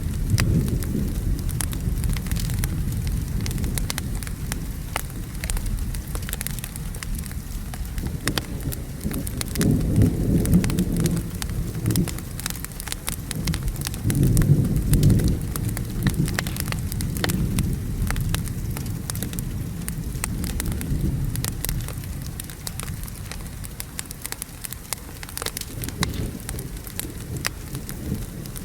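Steady rain and rumbling thunder, with the thunder swelling twice, about ten seconds in and again about five seconds later. Throughout, a wood fire crackles with frequent small sharp pops.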